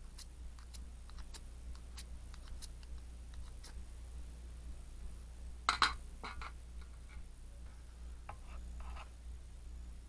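Scattered small clicks and taps from something being handled, with a sharper cluster of clicks about six seconds in and a brief scrape near the end, over a low steady hum.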